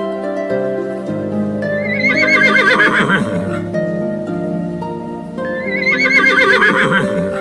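Gentle plucked harp music, with a horse whinnying twice over it, each whinny a wavering call lasting about a second and a half.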